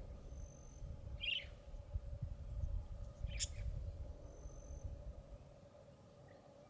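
Budgerigars calling: short chirps about a second and three and a half seconds in, and two thin, steady high whistles, over a low rumble.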